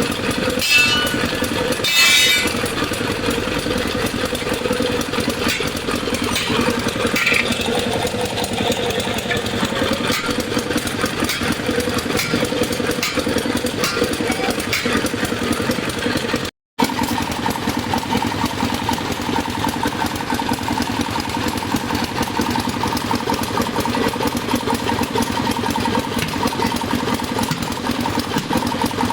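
A motor running steadily, with two sharp metallic clanks that ring briefly in the first couple of seconds. The sound drops out for a moment about halfway through and comes back as a steadier hum.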